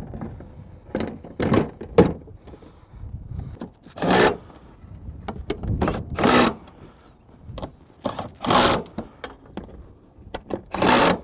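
Hand work fitting a tractor seat backrest: scattered clicks and knocks, with four short scraping strokes roughly every two seconds.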